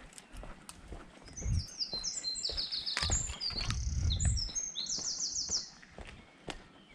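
A songbird singing a run of rapid, high trilled phrases for several seconds, with dull low thumps underneath.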